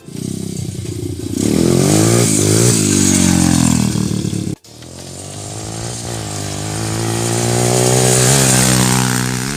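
125cc dirtbike engine revving, its pitch rising and falling as the throttle is opened and closed. It cuts off abruptly about halfway through, then comes back and climbs in revs over several seconds before easing off near the end.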